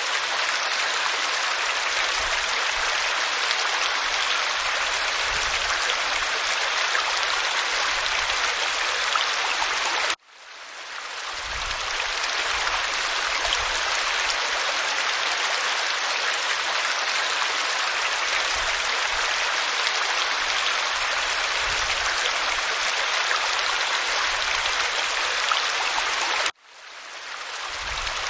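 Waterfall pouring over rock: a steady, dense rush of falling water. The sound cuts out abruptly twice and each time swells back within a second or two.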